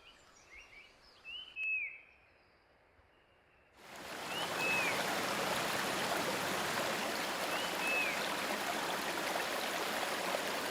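Short, high, arched bird chirps, first against near-quiet woodland. About four seconds in a steady rush of running water starts abruptly, and the same chirps come through it a couple more times.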